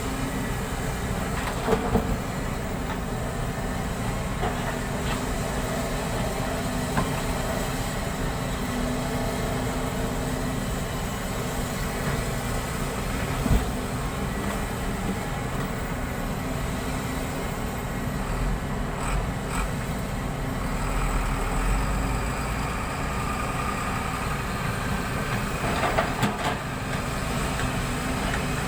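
Steady vehicle running noise with a few short knocks: two close together about two seconds in, one halfway through and one near the end.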